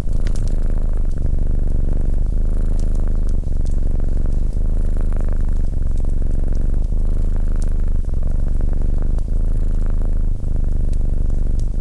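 Domestic cat purring, a steady low rumble that dips briefly every second or two.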